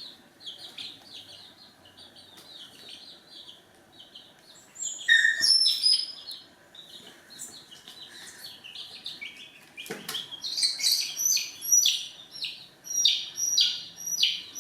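Chicks peeping: many short, high calls, sparse at first and then denser and louder from about ten seconds in. There is a sharp knock about ten seconds in.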